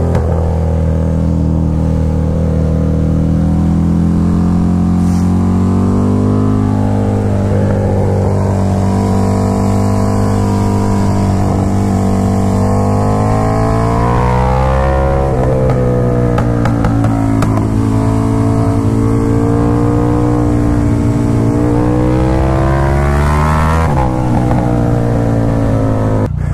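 KTM 1290 Super Duke R's V-twin engine running under way at moderate revs, heard from on the bike with wind rushing over the microphone. The engine note rises and falls with the throttle, dropping twice, about halfway through and near the end, then pulling back up.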